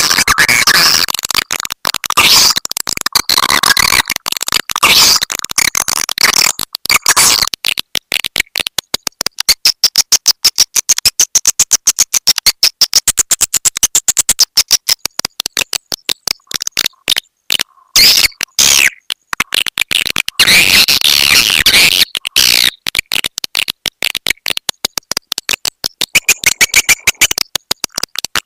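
Swiftlet lure-call recording: dense, rapid twittering chirps and clicks of many swiftlets layered together. About 8 s in it thins to a fast, even train of clicks, and the chirping swells again around 20 s.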